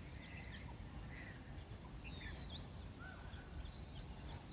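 Birds calling and chirping: many short, high, scattered calls, the loudest a little over two seconds in, over a faint low background rumble.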